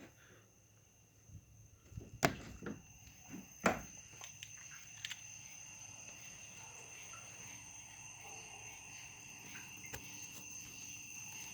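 Two sharp knocks about two and three and a half seconds in, then crickets chirping in a steady, high trill that carries on through the rest.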